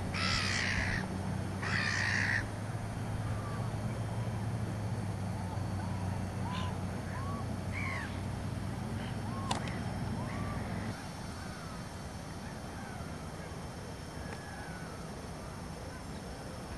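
Two loud harsh bird calls in quick succession near the start, followed by a scattering of short soft chirps from birds. A steady low hum runs underneath and stops about eleven seconds in.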